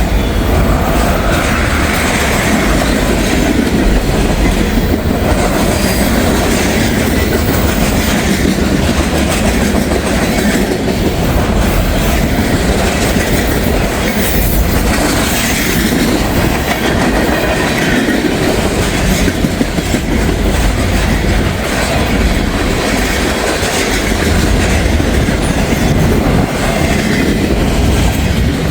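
CSX freight train rolling past at moderate speed: a steady, loud rumble of cars and wheels on the rails.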